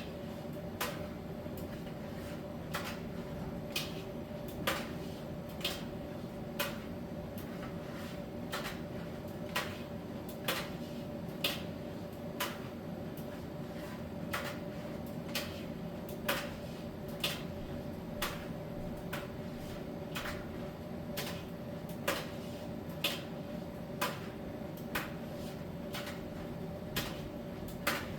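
Miele T1 heat-pump tumble dryer running mid-cycle: a steady hum from its drum motor, fan and heat-pump compressor, with light clicks about once a second as the load tumbles against the drum.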